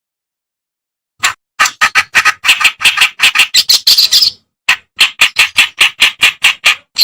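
Kerak basi (reed warbler) singing: a fast string of short, loud notes, about five a second, starting about a second in, with a brief break a little past the middle.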